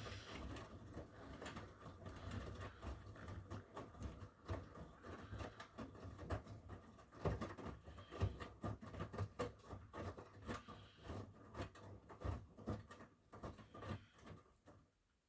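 Miele W1 washing machine drum turning during the wash, wet laundry tumbling with irregular soft thuds and sloshing over a low hum. The sound stops shortly before the end as the drum pauses.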